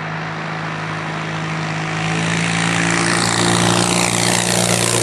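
Ultralight aircraft's engine and propeller on a low pass, growing steadily louder as it closes in on the listener, with the pitch starting to bend downward near the end as it goes by.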